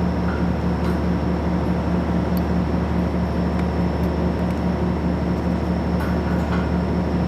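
Steady machine drone: a low hum that pulses rapidly, with a thin high whine and a few faint ticks.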